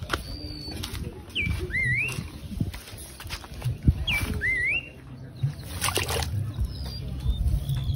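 A bird repeating a whistled call a few times, over rustling and handling noise as a caught fish is wrapped in cloth and put into a keep net, with a short splash-like rush of noise about six seconds in.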